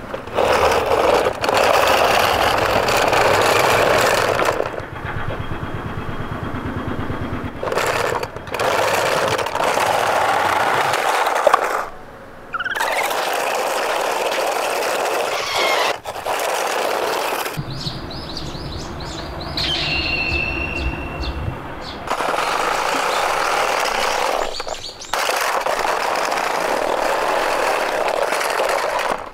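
Die-cast Tomica minicars and a toy truck rolling over a plastic playset, a steady rough rolling rattle heard in several stretches that start and stop abruptly. A few short bird chirps come about two-thirds of the way through.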